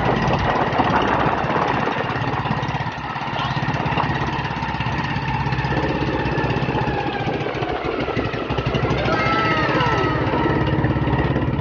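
Motorized bangka's engine running steadily underway, a fast even chugging with a change in tone about halfway through. A few brief gliding high tones sound over it near the end.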